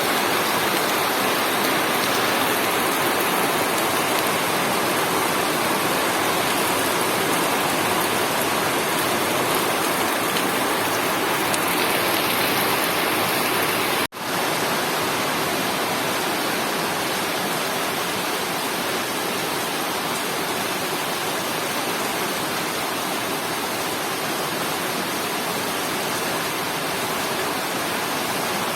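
Steady heavy rain falling, an even rushing hiss that cuts out for a split second about halfway through and resumes.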